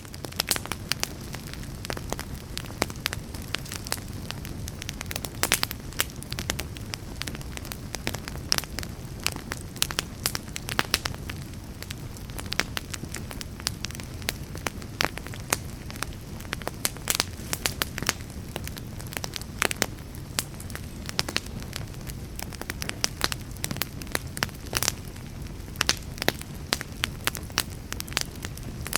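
Wood fire burning steadily, with dense irregular crackles and pops from the burning wood over a continuous low rumble of the flames.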